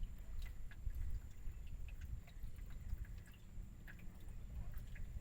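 Uneven low rumble, like wind buffeting the microphone, with water dripping and lapping and scattered small clicks.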